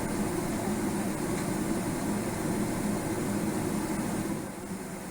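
Steady cabin noise inside a Boeing 777-300ER just after landing: a low hum from the engines and air conditioning under a hiss. It drops noticeably in level about four seconds in.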